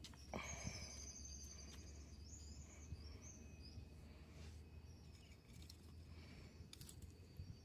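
Near silence. A bird sings a high warbling phrase for about the first three seconds, over faint rustles and light knocks from rope and wooden sticks being handled.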